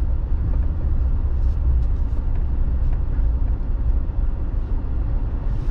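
Steady low rumble of a vehicle driving on the road, with even road and engine noise.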